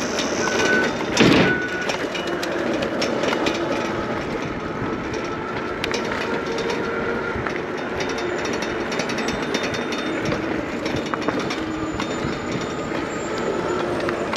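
Riding noise from an electric bike on the move: a steady rush of wind and tyre noise with light rattling throughout, and one sharp knock about a second in.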